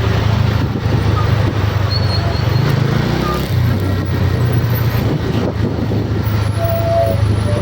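Steady, loud low rumble of a motor vehicle running, with road noise; the engine note dips slightly about halfway through.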